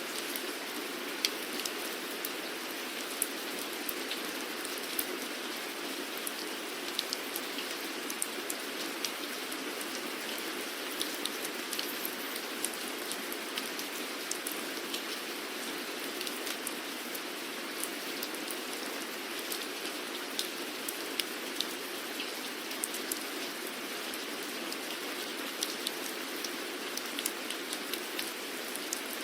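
Steady rain: a continuous even hiss, with many individual drops ticking sharply on a surface.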